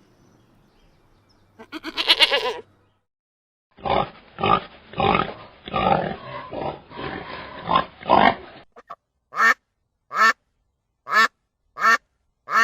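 Animal calls in several short clips. First comes one pitched call, then a dense run of short calls, then five brief calls spaced evenly about a second apart.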